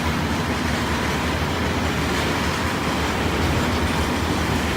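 Ford F-150's 3.0-litre Power Stroke V6 turbo diesel idling: a steady low rumble.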